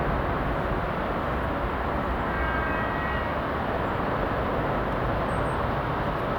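Jet airliner engines, a steady unbroken rumble with a faint whine about halfway through.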